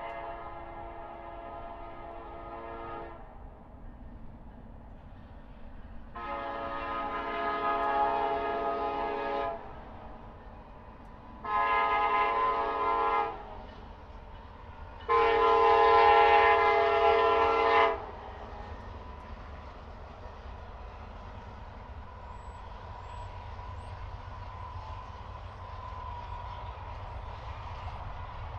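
Freight locomotive air horn sounding the grade-crossing signal: two long blasts, one short, then a final long one. After the horn stops, the train's low rumble builds steadily as it approaches.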